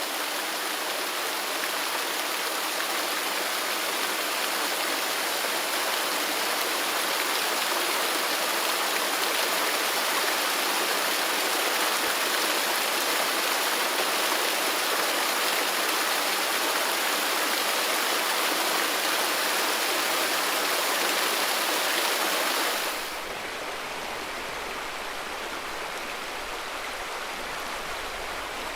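Steady rush of flowing stream water. About 23 seconds in it switches abruptly to a quieter, duller stretch of the same rushing, with a low rumble underneath.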